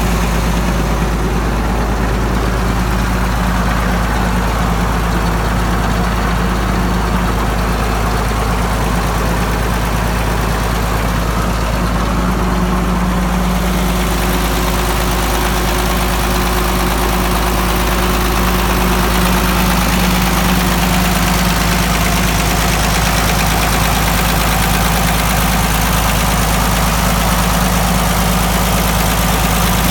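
Case 930 tractor engine idling steadily, with an even, unchanging running note.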